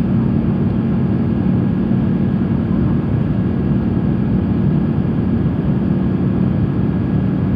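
Steady cabin noise of an Airbus A350-900 in flight: a constant rush of airflow and engine noise, heaviest in the low end, with a steady low hum.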